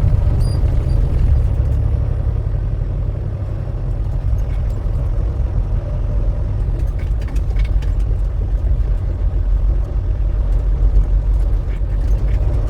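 Semi truck running on the road: a steady low engine and road rumble.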